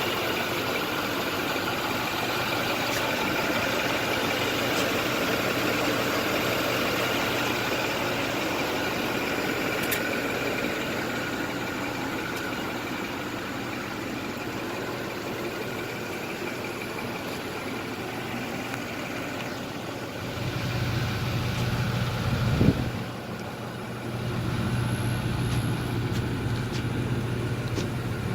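2010 International DuraStar 4300's diesel engine idling steadily. About two-thirds of the way through its low hum grows stronger, and a brief sharp, louder sound follows shortly after.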